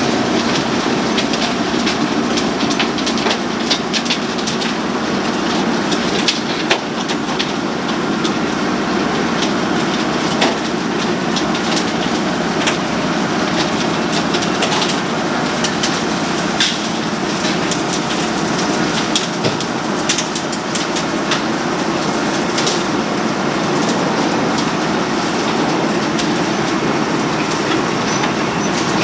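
Road planer (cold milling machine) running and milling the road surface: a steady loud grinding noise, peppered with frequent sharp clicks and rattles.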